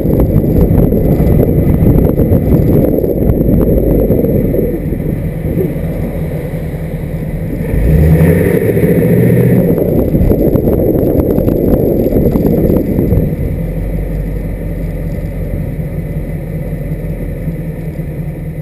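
1979 Pontiac Firebird Trans Am's 6.6-litre V8 running as the car drives along, heard from a hood-mounted camera with wind on the microphone. The engine picks up about eight seconds in, then the sound eases off over the last few seconds as the car slows.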